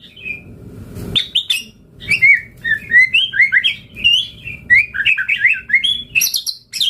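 White-rumped shama (murai batu) singing a fast, varied song of short whistled notes and chatters. It starts after a brief lull, with a sharp click about a second in.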